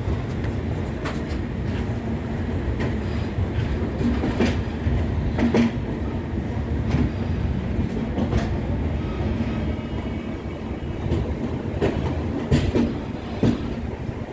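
Passenger express train rolling on the track, a steady low rumble with irregular clickety-clack of the wheels over rail joints.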